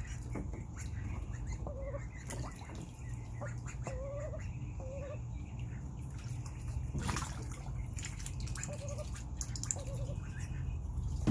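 Young Indian runner and Pekin ducks giving short, soft wavering calls several times while dabbling in a pool, with drips and small splashes of water and one louder splash about seven seconds in. A steady low hum runs underneath.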